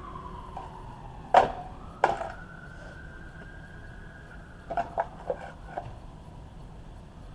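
A siren wailing, its pitch sliding slowly down and then back up. Over it come sharp knocks: two about a second and a half and two seconds in, and a quick run of four or five near the middle.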